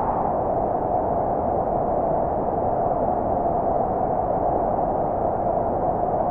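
Synthesizer in an electronic track: a steady band of filtered noise, like wind, held at one mid pitch with no beat or rhythm.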